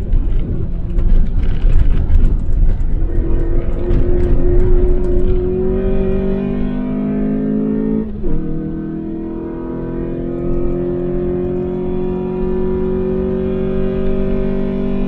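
Daihatsu Applause's four-cylinder engine heard from inside the cabin under acceleration: rough, noisy at first, then rising steadily in pitch as it pulls through the revs. About eight seconds in the pitch drops abruptly, as at an upshift, and it climbs again more slowly.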